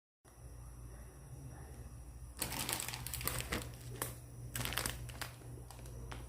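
Plastic food packaging crinkling in irregular bursts as it is handled, starting about two and a half seconds in, over a steady low hum.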